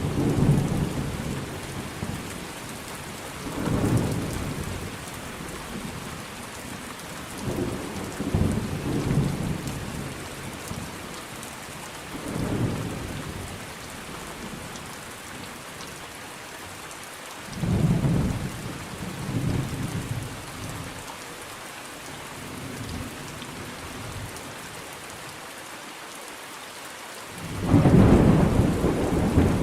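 Thunderstorm: steady rain falling with repeated low rolls of thunder every few seconds, the loudest rumble near the end.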